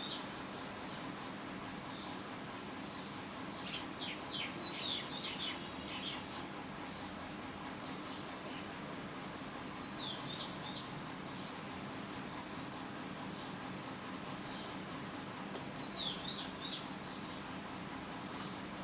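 Bird song: three bursts of quick chirps and falling whistles, about six seconds apart, over a steady high-pitched pulsing like an insect and a low steady hum.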